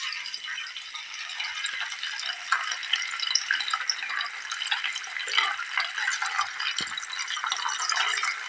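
Sepat fish frying in hot oil: a steady sizzle full of small pops and crackles.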